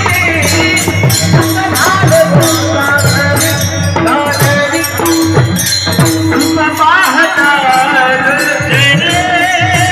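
Marathi devotional kirtan music: male voice singing an abhang in a wavering, ornamented line over a mridang drum beating a steady rhythm, with a bright metallic jingling that keeps time.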